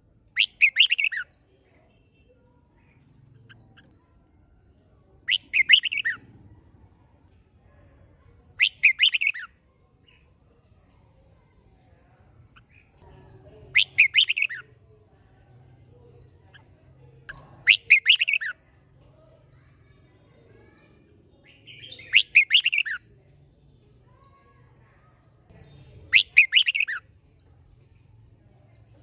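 Red-whiskered bulbul singing short, loud, warbled phrases about every four seconds. Fainter, higher chirps come between the phrases through the middle of the stretch.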